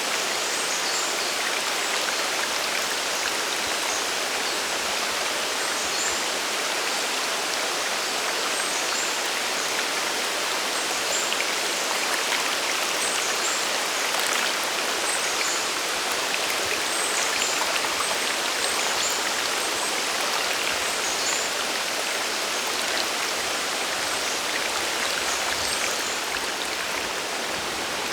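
Sagiri Falls' water pouring and splashing in a steady, unbroken rush, with faint high chirps scattered through it.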